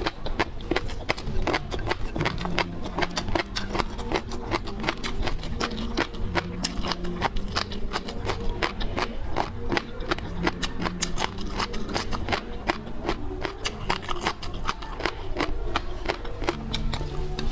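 Close-miked seafood eating: a dense, irregular run of sharp, crunchy clicks and smacks from chewing, with faint background music underneath.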